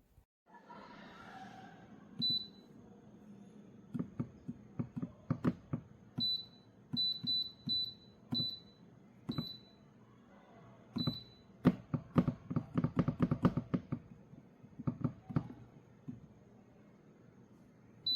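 Short, high electronic beeps from a digital rice cooker's control panel as its buttons are pressed, about ten in all, with several in quick succession. Clicks and knocks from the cooker being handled run alongside.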